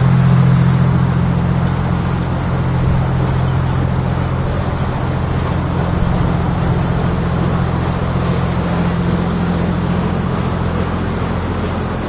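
Boat engine running at a steady low drone, with a constant rush of wind and water noise over it.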